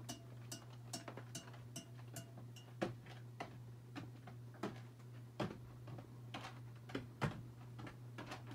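Harbor Breeze Armitage 42-inch ceiling fan running: a steady low motor hum with repeated ticks, some with a short ring. The ticks come evenly, two or three a second, for the first couple of seconds, then irregularly, with a few louder ones.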